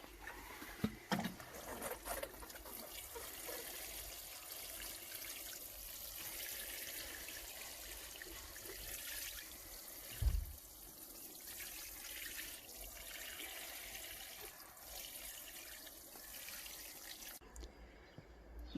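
Water poured steadily into a pot of dry potting soil, trickling and splashing, with a few knocks near the start and a dull thump about halfway through. The pouring stops shortly before the end.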